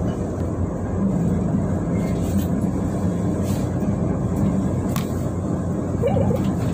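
Diesel passenger train running along the track, heard from inside its rear car: a steady low rumble, with one sharp click about five seconds in.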